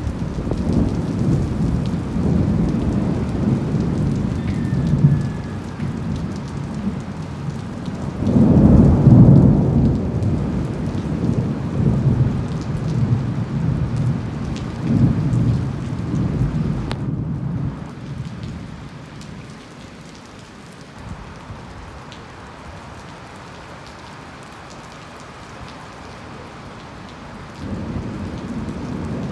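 Heavy rain falling during a thunderstorm, with long low rolls of thunder. The loudest rumble comes about a third of the way in. The thunder then dies away for a while, leaving steady rain, and rumbling builds again near the end.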